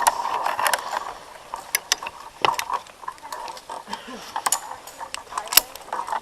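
Irregular sharp clicks and knocks, a few a second at uneven spacing, like small hard gear being handled.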